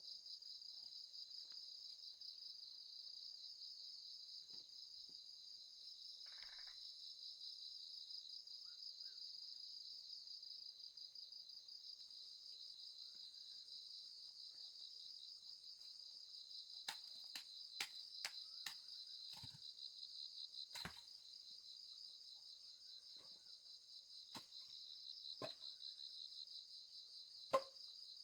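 Steady, faint, high-pitched chorus of trilling insects such as crickets. From about two-thirds of the way in, a scatter of short sharp clicks and knocks, the loudest near the end.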